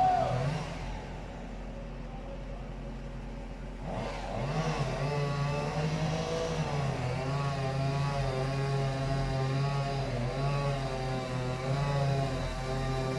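An engine running, its speed wavering up and down, louder from about four seconds in.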